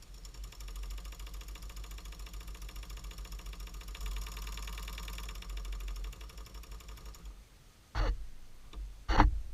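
Small 5.4 cc model steam engine running with a fast, even chuffing beat of about eight strokes a second, stopping about seven seconds in. Two loud knocks follow near the end.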